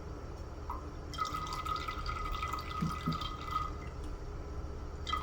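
Water dripping and trickling, with small ticks and splashes.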